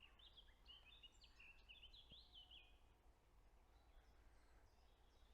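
Faint woodland birdsong: a small songbird sings a quick, varied run of high chirps for about three seconds, then only fainter scattered calls.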